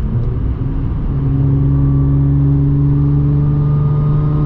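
Audi S4 B8.5's supercharged 3.0-litre V6, fitted with an AWE exhaust and test pipes, pulling under acceleration, heard from inside the cabin. After a brief dip about a second in, the engine note climbs slowly and steadily in pitch.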